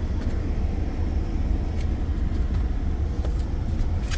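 A car engine idling steadily, heard from inside the cabin as a low rumble, with a few faint clicks.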